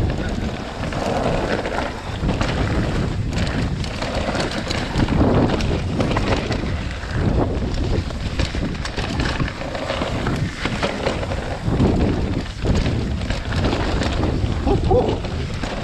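Wind buffeting the microphone of a camera on a mountain bike descending a wet, muddy trail, mixed with tyre noise on the sloppy ground and constant knocks and rattles of the bike over rough terrain.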